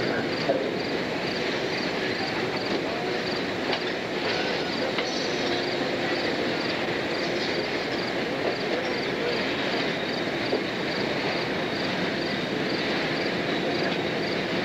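A train rolling past, a steady rumble of wheels on rail with a faint regular clicking.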